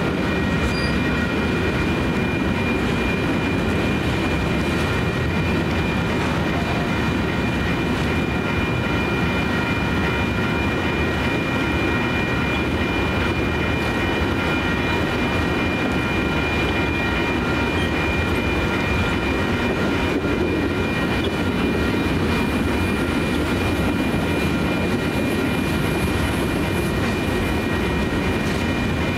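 Freight cars rolling past on the rails: a steady, unbroken rumble of wheels on track. Several thin, steady high-pitched tones ring over it the whole time.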